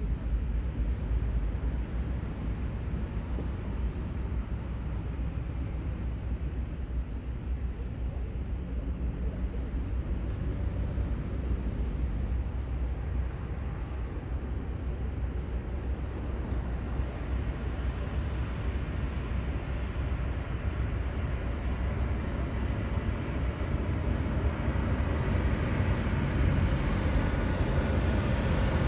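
Airplane engine noise growing steadily louder over the last ten seconds or so as the aircraft approaches, over a steady low outdoor rumble.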